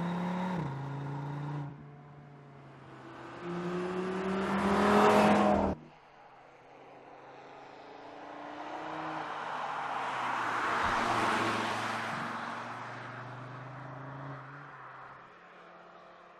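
Audi RS 3's 2.5-litre turbocharged five-cylinder engine under way: a gear change near the start, then the engine note rising under acceleration until it cuts off sharply about six seconds in. The car then goes by, its engine and tyre noise swelling to a peak about eleven seconds in and fading away.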